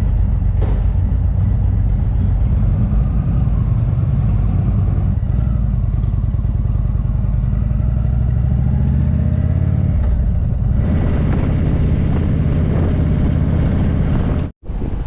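Indian motorcycle's V-twin engine running steadily under way. Its pitch climbs from about seven to ten seconds in and drops around ten and a half seconds in. The sound cuts out briefly near the end.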